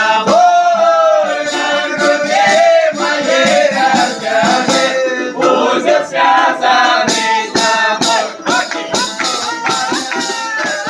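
Folk ensemble singing with instrumental accompaniment: long held, gliding sung notes over regular sharp rhythm strokes.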